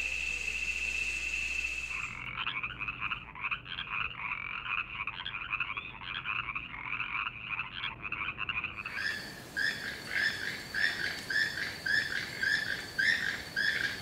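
Frogs calling: a fast, pulsing trill-like chorus, giving way about nine seconds in to one frog's repeated chirping call, about one and a half calls a second. It opens with a steady high-pitched buzz that stops about two seconds in.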